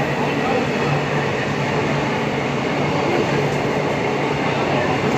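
Passenger train running on the track: a steady, even rumble of wheels and coaches with a constant low hum underneath.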